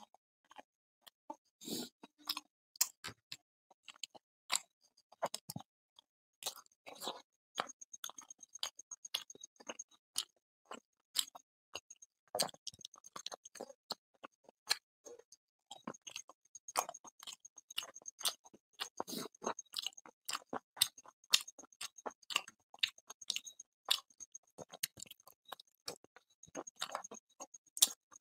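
Close-miked chewing and mouth sounds of a man eating chicken curry by hand: irregular wet clicks and smacks, a few at a time, with no words.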